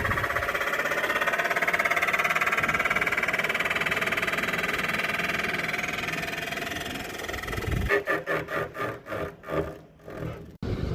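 Voltas inverter air conditioner running with an abnormal whirring hum and whine, just after being switched on: the sound problem the unit is being checked for. Near the end the sound turns choppy, in rapid pulses, before breaking off.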